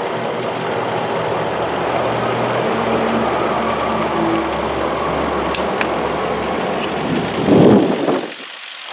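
2003 Infiniti M45's V8 idling with its number 4 ignition coil getting no signal, so that cylinder is not firing. Near the end there is a brief louder noise, and then the engine sound drops off abruptly.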